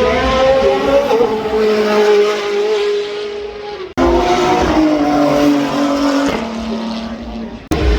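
Engines of high-performance cars accelerating up a hill climb, with a strong pitched note that holds and drifts slightly in pitch. It breaks off abruptly twice, about four seconds in and near the end, where one car's run is cut to the next.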